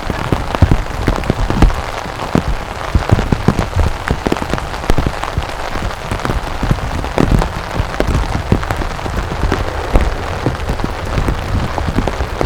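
Steady rain falling, with many sharp drop hits close to the microphone.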